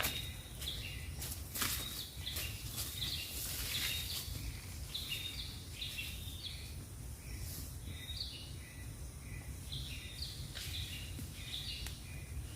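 Birds calling, a string of short chirping notes repeated over and over, over a steady low background rumble.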